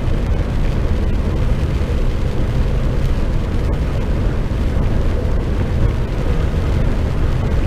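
Steady engine drone and tyre noise from an HGV tractor unit cruising on a wet motorway, heard from inside the cab.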